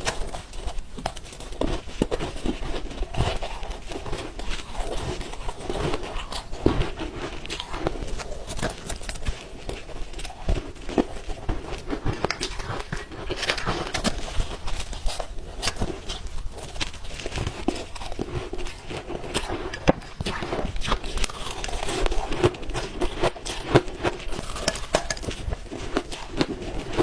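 Close-miked ice being chewed and crunched, many irregular cracks and crackles with wet mouth sounds between bites.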